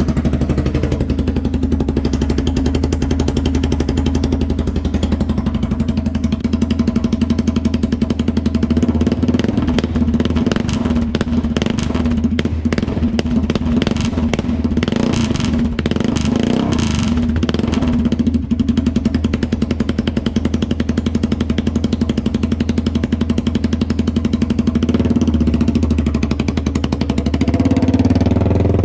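2018 Polaris Sportsman 570's single-cylinder engine running straight-piped with the muffler removed: a loud, rapid, raspy open-exhaust popping that grows rougher and more ragged through the middle before settling again.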